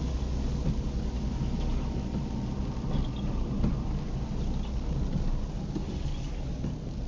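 Car driving in the rain, heard from inside: a steady low rumble of engine and tyres on the wet road under a hiss of rain.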